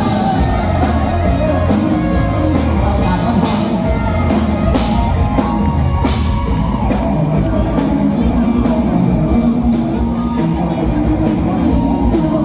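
Live band playing luk thung / mor lam music, with a drum kit keeping a steady beat under guitar and other instruments.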